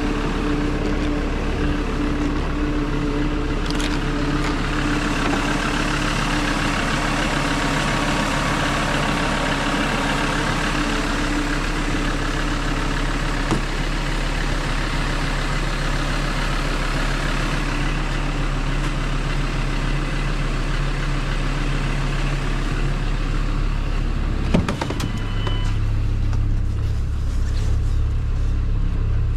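Ford Transit's five-cylinder diesel engine running steadily. About 25 seconds in there is a sharp click, and after it the engine's low note grows deeper and louder.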